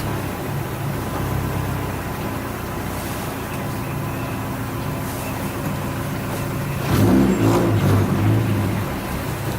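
Turbocharged Subaru WRX STi flat-four engine heard from inside the car, running steadily at low revs, then getting louder as the throttle opens about seven seconds in.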